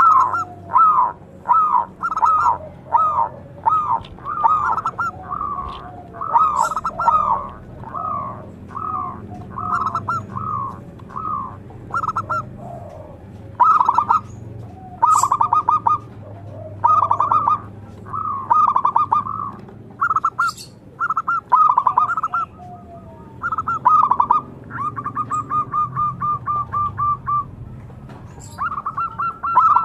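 Zebra dove (perkutut) singing: a steady series of short cooing notes, about two a second, with a fast rolling trill a little before the end. A few faint high chirps from another small bird come through briefly.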